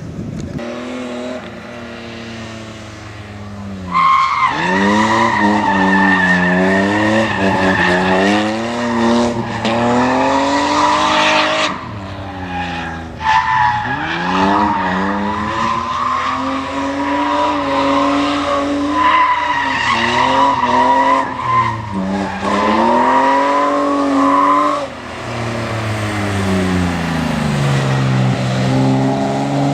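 BMW E30 drifting: the engine revs up and down repeatedly while the tyres squeal in long, steady screeches. The squeal starts about four seconds in and drops out briefly twice, once around the middle and again shortly before the end.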